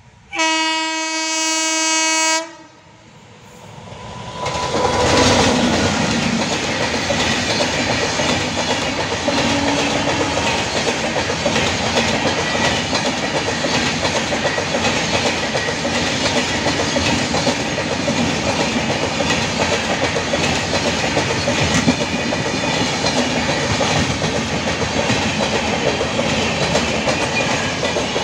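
An Indian Railways WAP-7 electric locomotive sounds one steady horn blast of about two seconds. Its express train then comes past at speed: the noise of the wheels on the rails rises a few seconds in and stays loud and steady as the coaches go by.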